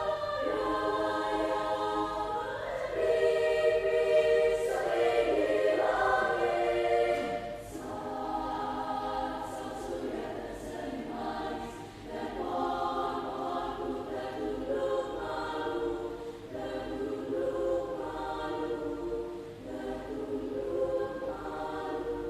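A junior high school choir singing, the phrases separated by brief dips in loudness.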